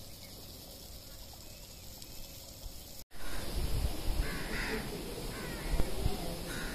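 Faint outdoor hiss, then after a cut about three seconds in, birds calling several times, short calls that rise and fall in pitch, over a low rumble.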